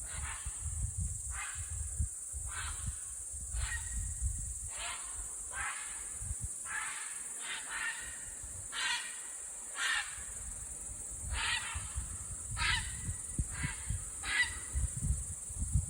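A group of common cranes calling, with loud trumpeting calls repeated roughly once a second.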